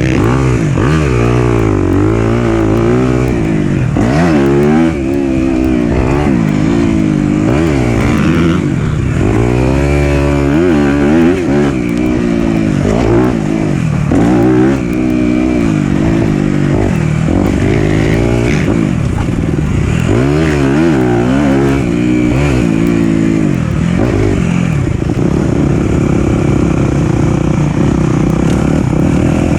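Four-stroke dirt bike engine being ridden hard, revving up and falling back again and again as the throttle is worked, its pitch rising and dropping every second or two. The note holds steadier near the end.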